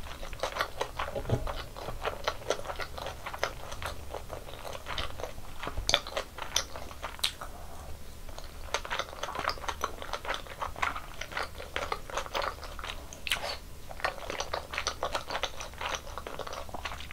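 Close-miked eating sounds: a person chewing and biting food, a dense run of sharp mouth clicks with a brief lull about halfway.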